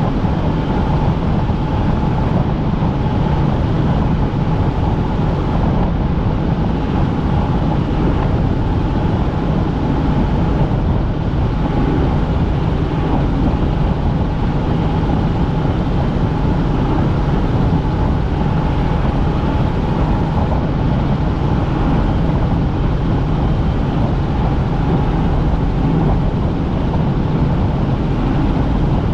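Helicopter in flight: steady turbine and rotor noise with a faint constant whine, unchanging throughout.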